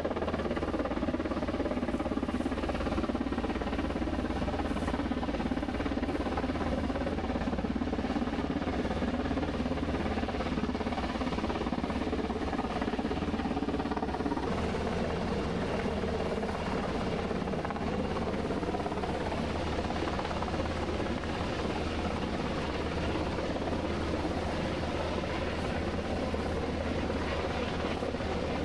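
Steady engine drone that holds an even level throughout, with a rushing noise over it.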